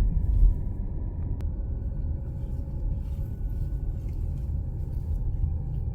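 Steady low rumble of a car's engine and tyres heard from inside the cabin as it drives along a forest road, with a faint click about a second and a half in.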